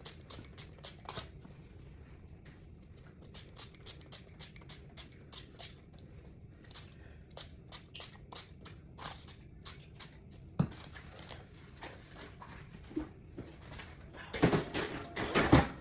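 Kitchen handling sounds: scattered light clicks and taps, a single sharp knock about ten seconds in, and a louder run of clattering near the end.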